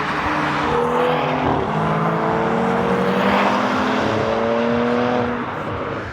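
Car engine accelerating hard past a trackside spot, its pitch climbing steadily for about five seconds before falling away near the end.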